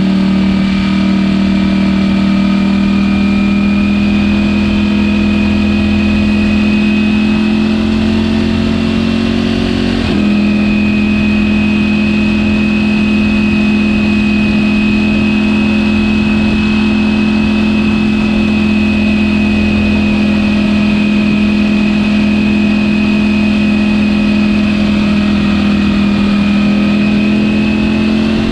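Ducati Panigale V4 engine on its stock exhaust, running steadily at cruising revs, with a high whine above the engine note. The pitch creeps up slowly, breaks briefly about ten seconds in, and resumes a little higher, then holds steady.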